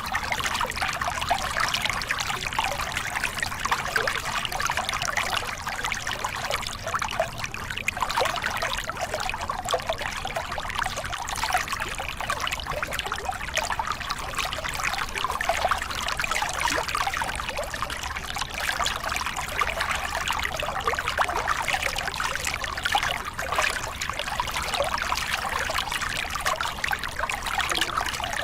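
Small river cascade: water splashing and gurgling over rocks in a steady, continuous rush.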